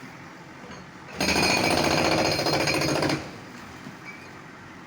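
Demolition breaker hammer pounding concrete in rapid strokes for about two seconds, starting just over a second in and stopping abruptly, over a low background hum.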